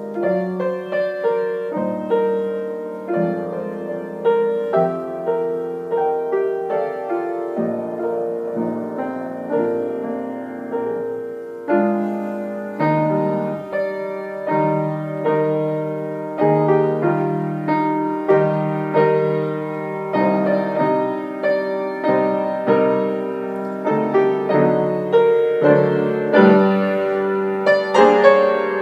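Solo piano music: slow chords and melody notes, each note struck and left to fade, with no voice.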